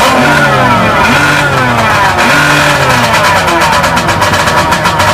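Car engine revving hard during a burnout, its pitch climbing and dropping again and again as the rear wheels spin.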